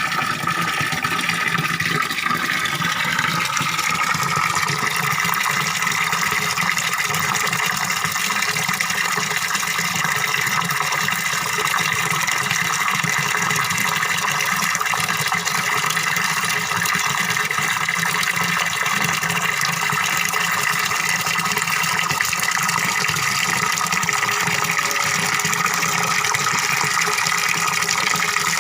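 Small waterfall pouring steadily into a fish pond: a continuous, even splashing and gurgling of falling water.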